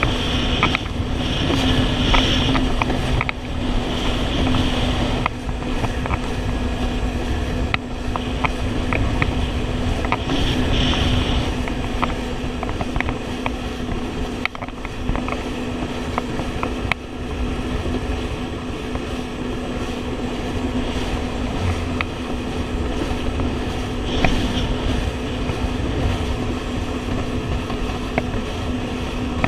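Jet ski engine running at a steady cruising speed, holding one steady pitch, with rumble and hiss from water and wind and scattered short knocks.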